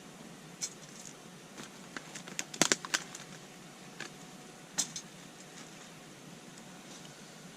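Scattered sharp clicks and light clinks, with a quick cluster of the loudest about two and a half seconds in and a few more around four and five seconds, over a steady low hiss.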